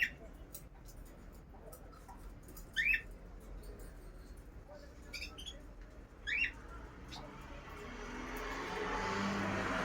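A caged bird giving short, sharp squawking calls, about one every two to three seconds. In the last couple of seconds a rising rushing noise builds and becomes the loudest sound.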